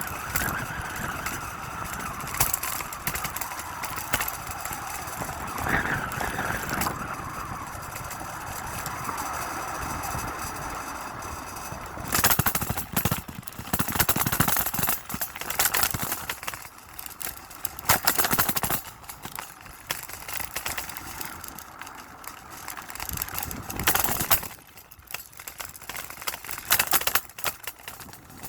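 River water rushing steadily, turning choppy and irregular about halfway through, with loud splashes and surges.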